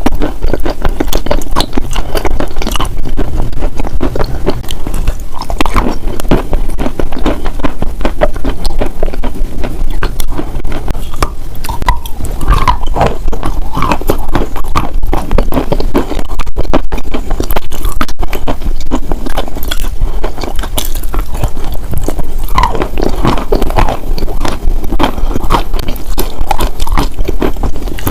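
Dense crunching, crackling and scraping very close to the microphone, a steady stream of small clicks and rasps that keeps going throughout.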